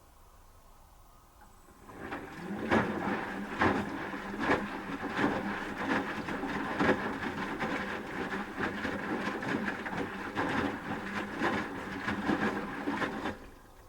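Asko Quattro W6098X washing machine in its wash stage: about two seconds in, the drum motor starts and the drum tumbles the wet laundry, with a steady motor hum and a slosh-and-thud about once a second as the load drops. It stops just before the end, the pause before the drum reverses.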